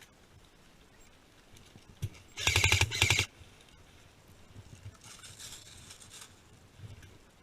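Airsoft gun firing a short rapid burst, about a dozen evenly spaced shots in under a second, about two and a half seconds in. Faint rustling of movement before and after.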